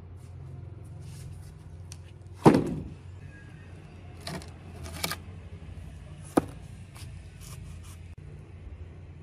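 A steady low hum with a loud knock about two and a half seconds in, followed by a few lighter taps and a sharp click, like objects being handled and set down on a hard surface.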